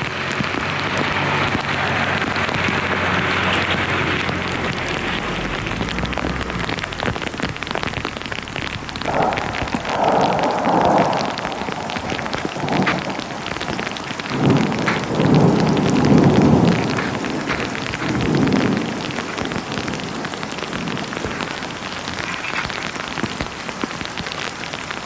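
Heavy rain falling steadily through a thunderstorm, with several rolls of thunder, the loudest about halfway through.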